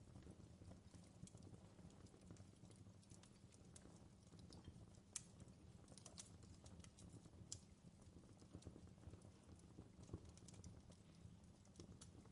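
Faint crackling of a wood fire in a fireplace: irregular sharp snaps and pops over a low, steady rumble.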